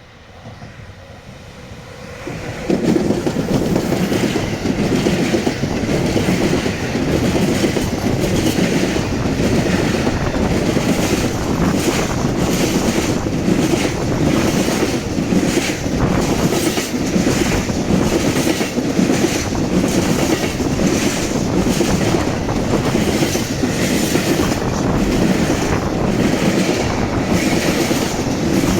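Freight train passing close by at speed: a loud rolling rumble that comes in suddenly about two and a half seconds in, with the regular clickety-clack of wagon wheels over rail joints.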